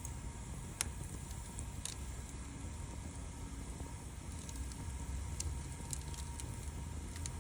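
Campfire burning, with sharp crackles and pops every second or two over a steady low rumble.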